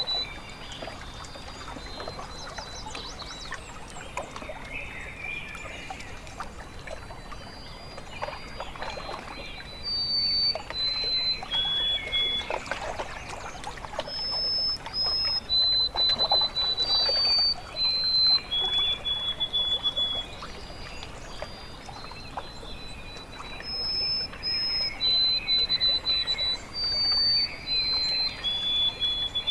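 Water lapping and trickling along a lakeshore. Over it come clear, high whistled notes, each held at a steady pitch and stepping up and down in a phrase that starts again a few times, the loudest sound when it plays.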